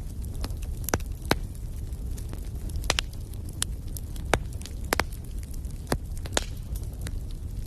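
Wood fire in a fireplace crackling, with about eight sharp pops and snaps at irregular moments over a steady low rumble of the flames.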